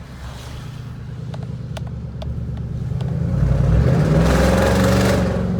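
Chevy Silverado 5.3-litre V8 on straight-piped true dual exhaust, with no muffler, resonator or crossover, accelerating: the exhaust note builds to a loud peak about three and a half seconds in, then eases off near the end. A few faint clicks come early on.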